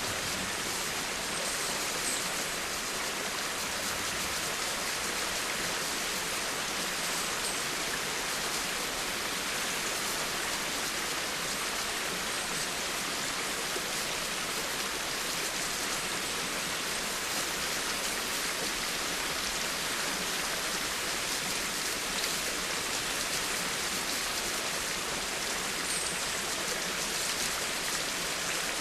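Steady rain falling, a constant even hiss of many drops with no changes in level.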